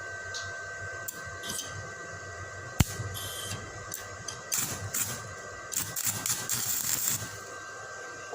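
Stick (electrode) arc welding being started: a sharp click, then irregular crackling and spitting from about four and a half to seven seconds in as the arc catches in short bursts and goes out, over a steady high whine. The welder says cold, rain-wet steel makes the arc hard to strike.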